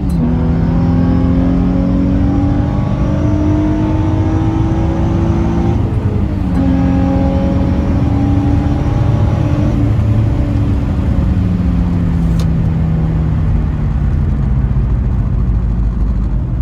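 Infiniti G35's 3.5-litre V6, with an aftermarket intake and stock exhaust, pulling hard. The engine note climbs, drops sharply at an upshift about six seconds in, climbs again, then falls away steadily as the car comes off the throttle.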